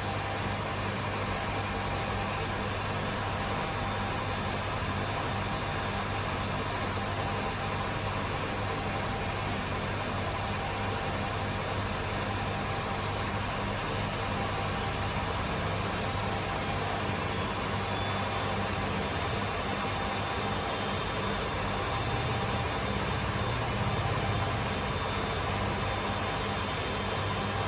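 Two Hotpoint Aquarius washing machines, a WMA37 and a WMA48, spinning together: a steady drum rush and motor hum, with a high motor whine that rises slowly in pitch as a drum picks up spin speed.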